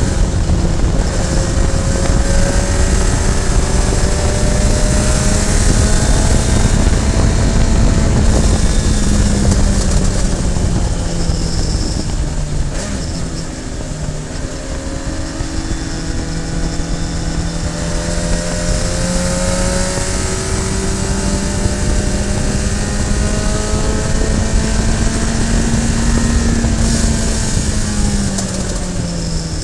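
Radical SR3 sports racer's engine under load at racing speed. Its pitch climbs slowly for long stretches, then falls away about halfway through and again near the end as the car comes off the throttle, all over heavy wind and road rumble.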